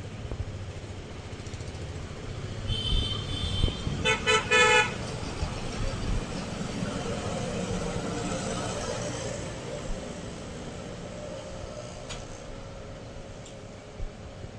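Vehicle horns honking in road traffic: a short high toot about three seconds in, then a louder horn blown in three quick blasts about a second later, over the steady rumble of passing vehicles.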